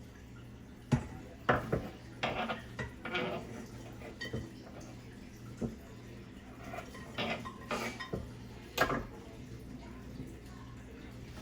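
Pots, utensils and a cutting board clattering during cooking: an irregular run of knocks, clinks and scrapes, the loudest about a second in, just after, and near the nine-second mark. A faint steady low hum runs underneath.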